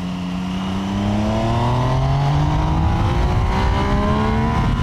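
Triumph Trident 800's 798cc inline-triple engine accelerating hard, its revs climbing steadily for several seconds.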